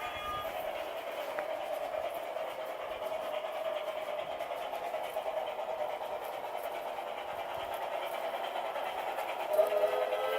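LGB Mogul G-scale model steam locomotive running on its track, with a steady whir of its motor and gearing. A whistle-like tone from its worn sound chip cuts off about half a second in, and a pitched tone comes back near the end.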